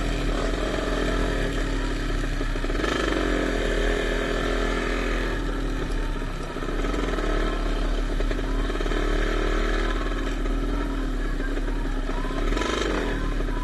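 Motocross dirt bikes racing, their engines revving with the pitch rising and falling repeatedly.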